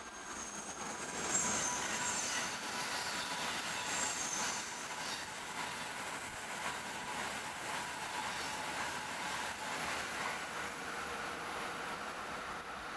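N700A Shinkansen train running past at speed: a loud, steady rush of train noise that swells in about a second in and holds, with a faint high whine in the first few seconds.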